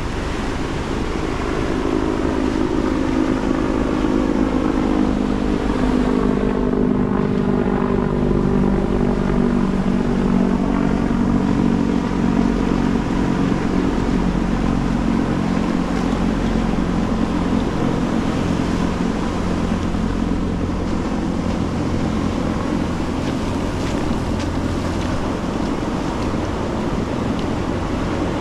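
Ocean surf washing on the beach, with the drone of a passing engine over it. The engine's tone slowly drops in pitch and fades through the first half.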